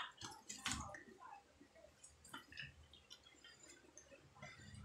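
Faint close-up mouth sounds of chewing a fried dynamite lumpia (chili pepper stuffed and wrapped in spring-roll wrapper), with one sharp crunch shortly after the bite and soft scattered clicks after it.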